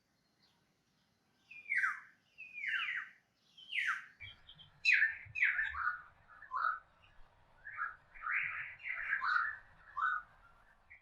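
A bird calling: three downward-sliding calls about a second apart, then a quicker run of varied, chattering notes.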